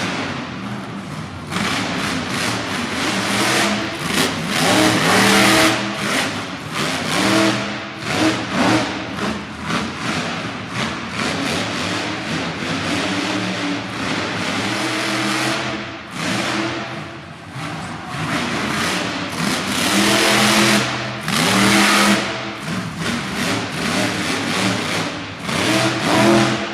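Monster truck engine revving hard again and again, the throttle opened and chopped in quick bursts so the pitch keeps climbing and dropping.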